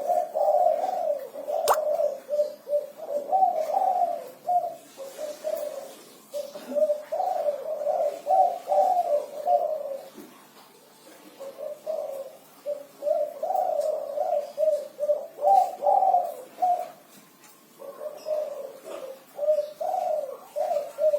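Spotted dove (tekukur, derkuku) cooing steadily in repeated phrases, its 'kuku 6' six-note coo delivered persistently, in about four bouts separated by short pauses. A single sharp click sounds about two seconds in.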